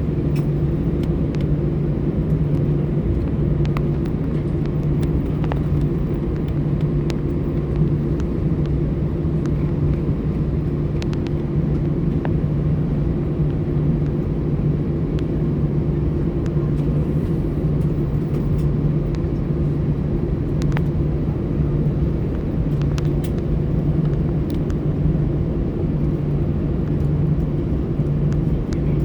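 Cabin noise inside an Airbus A320 taxiing: a steady engine hum and low rumble at an even level, with a few faint clicks and rattles.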